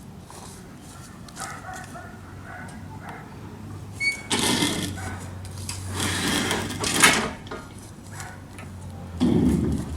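Metal rattling and clanking as a toy hauler's fold-down rear porch and its railing gate are set up. A scrape or rattle comes about four seconds in and another around six, then a sharp clank just after seven seconds and a heavier thud near the end.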